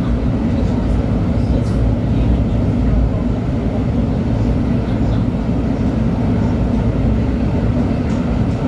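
LHB TW2000 Stadtbahn light-rail car (built 1997) running steadily, with an even low rumble of wheels on track.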